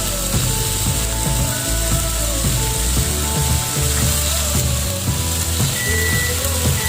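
Marinated chicken pieces sizzling in ghee on a hot tawa, a steady hiss under background music with held notes and a bass line.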